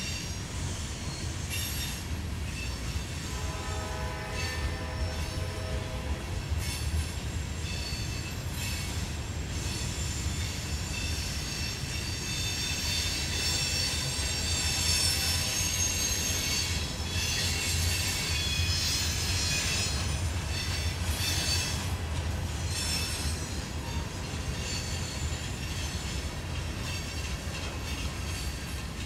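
Empty steel rock hopper cars of a freight train rolling past: a steady low rumble of wheels on rail with high-pitched wheel squeal that comes and goes, strongest in the middle.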